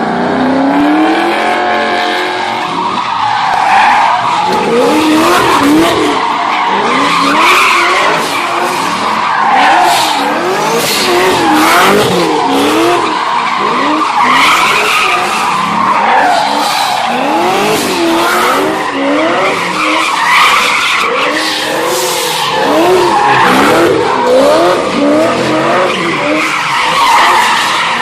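Muscle car V8 engines revving up and down over and over as the rear tyres squeal in continuous wheelspin, burnouts and drifting.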